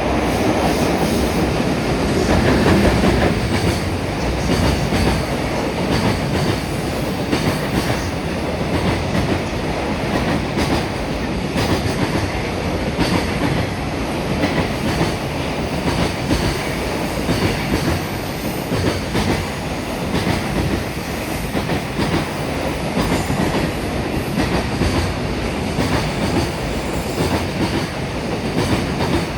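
Freight train of Koki container wagons hauled by an EF210 electric locomotive, passing at speed. The wheels give a steady clickety-clack as they cross the rail joints, over a continuous rolling rumble.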